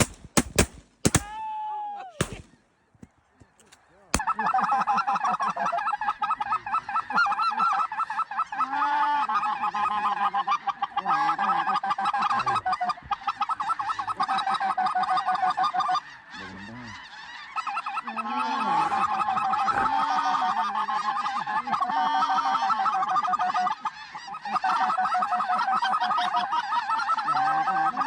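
Shotgun blasts right at the start, then after a short lull a dense, continuous chorus of honking snow geese, many birds calling at once.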